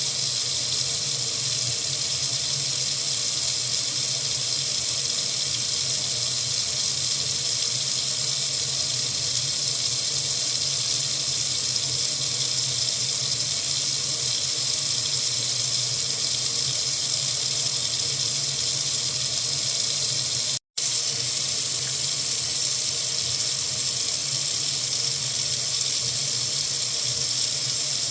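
Water faucet running steadily, an even hiss, broken once by a split-second gap about two-thirds of the way through.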